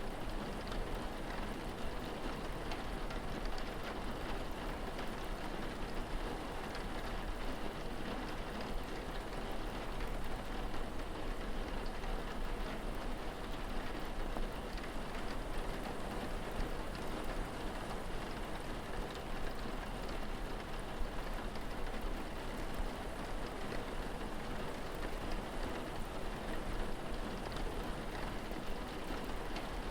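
Steady rain falling, an even patter with a low steady rumble underneath.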